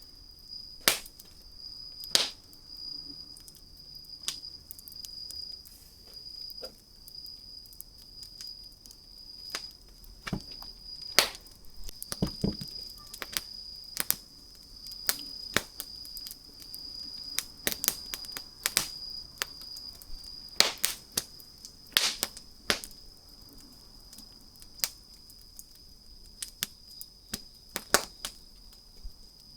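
Wood campfire crackling, with irregular sharp pops and snaps, some loud ones grouped together in the middle and toward the end. A steady high-pitched tone runs underneath.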